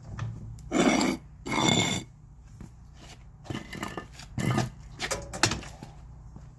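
A portable generator being pulled off the blocks it was propped on: two loud scraping, clattering bursts, one about a second in and one just before two seconds, then a few lighter knocks and rattles as it settles.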